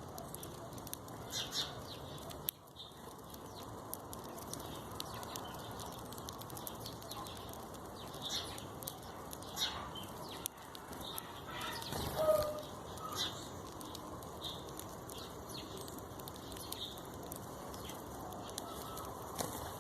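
Chickens clucking, with short high chirps scattered through and a brief louder call about twelve seconds in, over a steady background hiss.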